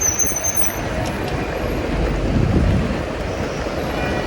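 Road traffic on a city street: vehicles running and passing as a steady rumble, a little louder around the middle.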